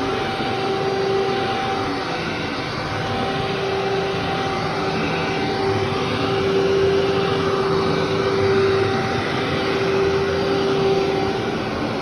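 Vacuum cleaner running over a heavily soiled carpet: a steady motor whine over a thick rush of suction, the whine wavering and dipping briefly now and then as the machine is pushed back and forth.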